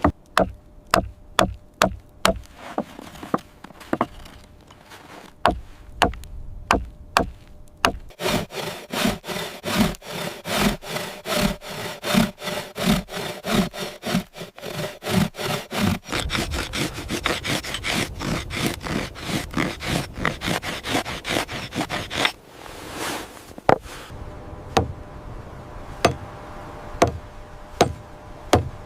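Wood being cut by hand with a saw: steady, even back-and-forth strokes through most of the middle. Before and after the sawing there are scattered sharp knocks of wood on wood.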